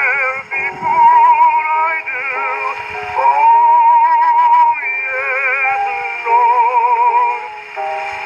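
Baritone voice singing a Negro spiritual with wide vibrato over instrumental accompaniment, played from an original 1922 78 rpm record, with a thin, narrow sound that has no highs; one long held note falls in the middle.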